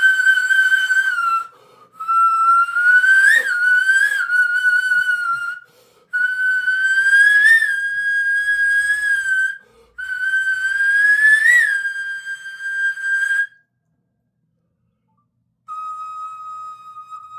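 Iwabue (Japanese natural stone flute) blown in four long, pure whistle-like notes separated by short breath gaps, the pitch creeping upward with quick upward flicks. After a pause of about two seconds, a quieter, lower note begins near the end.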